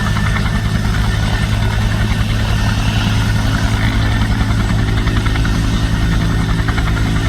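Bell 212 helicopter running with its twin turboshaft engines and two-bladed rotor turning: a steady low drone with a fast, even pulsing that holds level throughout.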